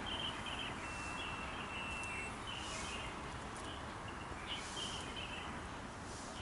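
Birds chirping in short repeated calls over a steady background hiss of outdoor ambience.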